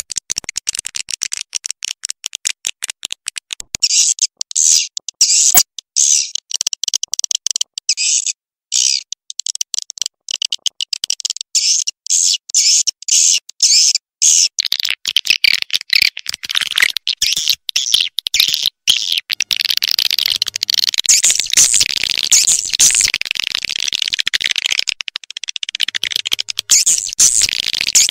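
Edible-nest swiftlet calls, as played to lure swiftlets into a nest house: a rapid, high-pitched chattering train of chirps that becomes a denser, continuous twitter about halfway through.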